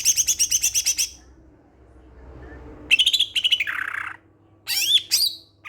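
Cucak hijau (greater green leafbird) singing. A fast trill of repeated high chirps lasts about a second, then after a pause comes a chattering phrase that drops in pitch, and two short sweeping calls near the end.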